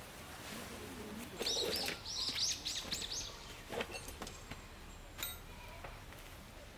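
A bird singing a quick run of about six short, arching high chirps, followed by a few light clicks.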